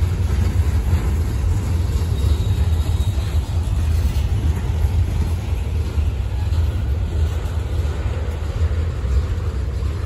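Freight train cars rolling past slowly with a steady low rumble as the train slows down to stop.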